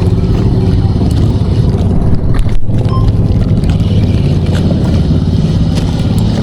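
A small engine running steadily and loudly, with a brief drop about two and a half seconds in.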